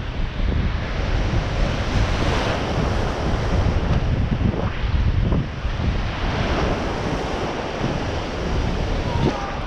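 Wind buffeting the microphone over the wash of sea waves.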